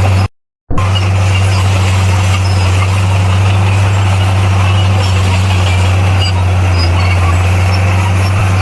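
Bulldozer's diesel engine running steadily at a constant pitch with a deep hum. The sound cuts out completely for under half a second just after the start, then carries on unchanged.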